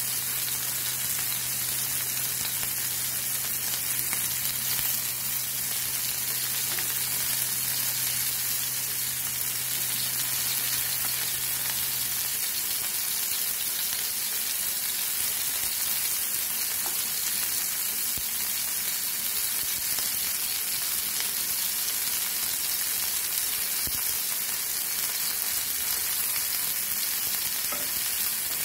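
Semolina-coated prawns shallow-frying in hot oil in a nonstick pan: a steady sizzle, with a spoon turning them over in the pan. A low steady hum underneath stops about twelve seconds in.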